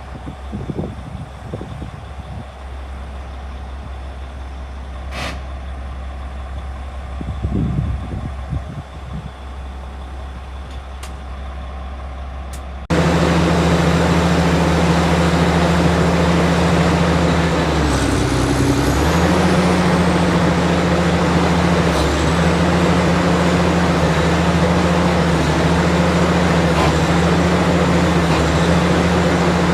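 Heavy diesel engine running: a low, fairly quiet hum for the first half, then, after an abrupt cut, a much louder steady engine drone that briefly drops in pitch and comes back up.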